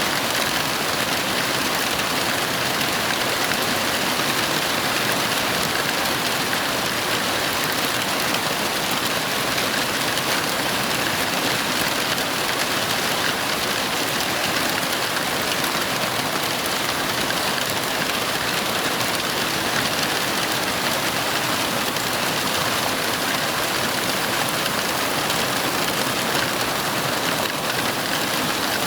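Heavy rain falling steadily, an even hiss of rain on surfaces with no breaks or thunderclaps.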